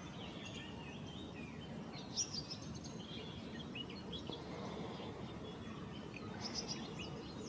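Wild birds chirping faintly over a steady outdoor background hiss, with short high chirps that cluster about two seconds in and again near the end.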